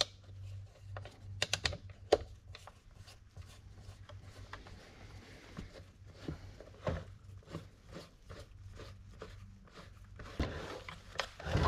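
Scattered clicks, taps and light knocks of small leaf blower parts being handled and fitted by hand, a few of them louder, over a low steady hum.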